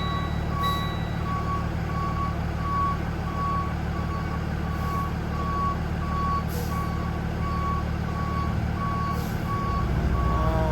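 Box truck's backup alarm beeping about twice a second over its running engine as the truck reverses. A second, higher-pitched beep stops about a second in, and the engine gets louder near the end.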